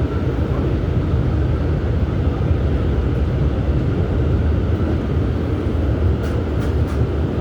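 R211S train running along the track, heard from a ride in the car: a steady deep rumble of wheels and motors, with a few faint clicks about six seconds in.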